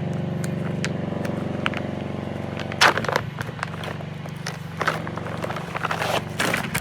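A motor running with a steady low hum, which fades after a loud sharp clatter about three seconds in, followed by scattered clicks and knocks.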